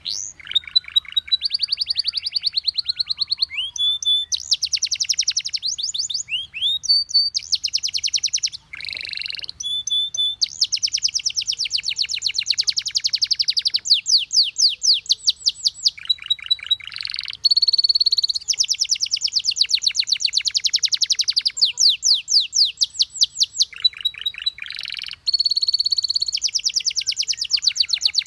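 Domestic canary singing a long song of fast trilled phrases, each a rapid run of repeated high notes, one phrase giving way to the next every second or few with brief pauses between.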